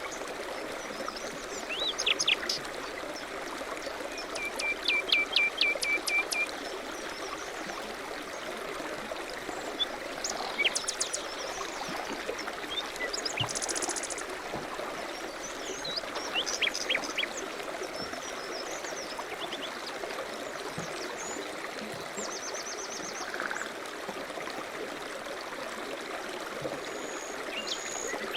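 Small songbirds singing and calling in short chirps and quick trills, over the steady rush of flowing river water.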